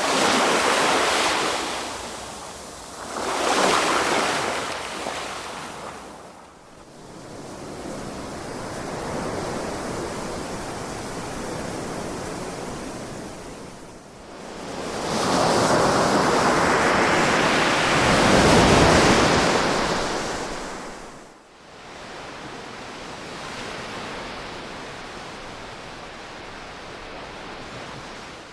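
Ocean waves washing onto a shore, the surf rising and falling in swells, with a loud surge at the start and the biggest, longest one about fifteen to twenty seconds in.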